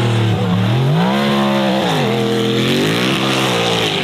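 Racing car engine revving hard and easing off twice in quick succession, its pitch climbing and dropping with each burst of throttle.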